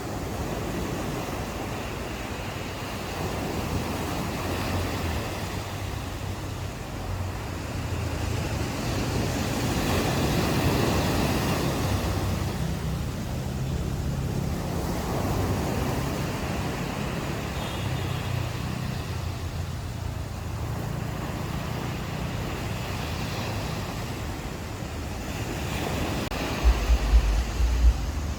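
Ocean surf washing on a beach, the rush of the waves swelling and fading every few seconds. Near the end, wind buffets the microphone with low thumps.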